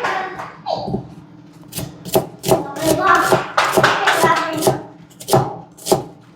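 Kitchen knife chopping on a cutting board in a run of uneven knocks, cutting onion and garlic.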